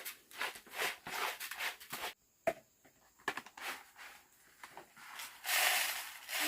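Irregular rustling and crinkling: a quick string of short scrapes and crackles, thickening into a denser rustle about five seconds in.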